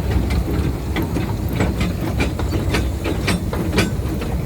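Miniature ridable steam train rolling along its track: a steady low rumble with sharp clicks of the wheels over the rails every half second or so. The running gear is running quietly.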